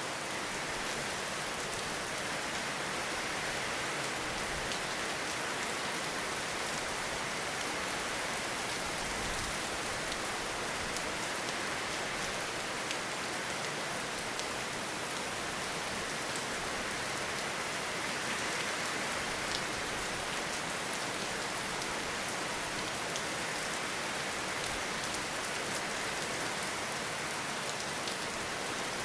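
Steady rainfall: an even hiss of rain with many individual drops ticking through it.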